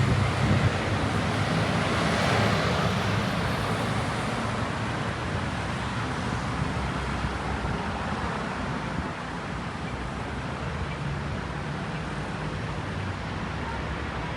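Road traffic on a city street: a passing vehicle's noise swells about two seconds in, then fades into a steady traffic rumble.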